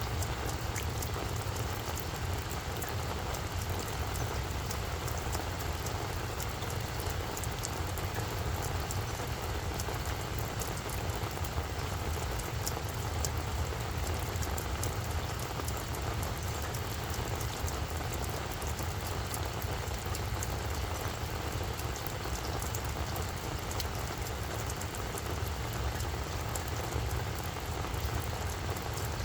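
Steady rainfall, with many individual drops ticking over a continuous patter. A steady low hum runs underneath.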